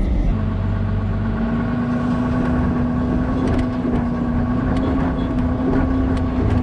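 Vehicle engine running at a steady low pitch that creeps slightly upward, with scattered faint clicks over it.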